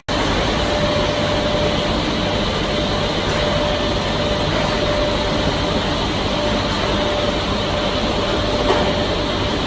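Wood-processing machinery running steadily: a continuous mechanical noise with a faint steady tone.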